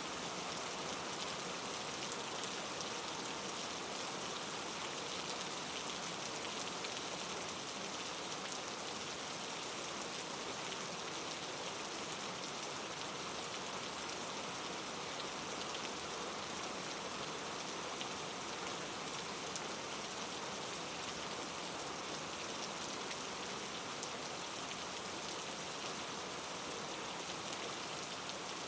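Steady hiss of falling precipitation with faint scattered taps, unchanging throughout.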